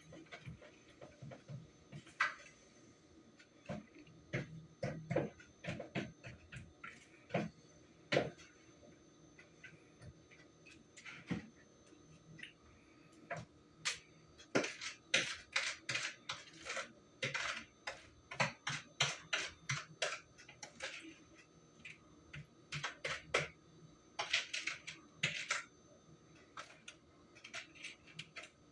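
Cake batter being stirred by hand in a mixing bowl: a utensil knocks and scrapes against the bowl in uneven strokes, speeding into a quicker run of a few strokes a second near the middle and again later.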